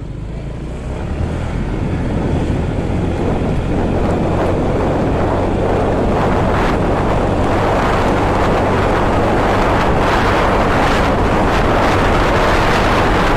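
Wind rushing over the microphone of a moving motorcycle, with the engine's steady low hum beneath it. The wind noise grows louder over the first few seconds, then holds steady.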